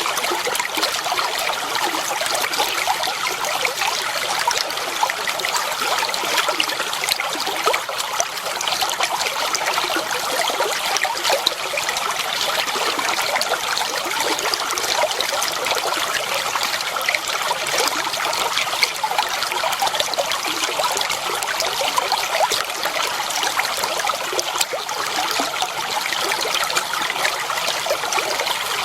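Flowing water running and trickling steadily, a continuous splashing babble with no pauses.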